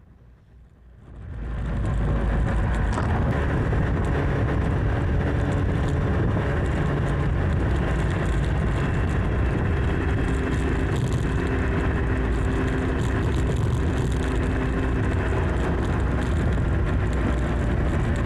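Motorcycle on the move: engine running with heavy wind noise, fading up about a second in and then holding steady.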